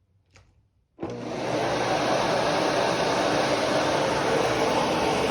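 A vacuum cleaner is switched on about a second in. Its motor comes up to speed within about half a second and then runs steadily. A faint click comes just before it starts.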